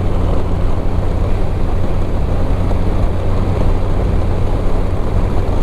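Motorcycle cruising at steady speed on a wet road: a steady engine drone under constant wind rush and tyre hiss from the water.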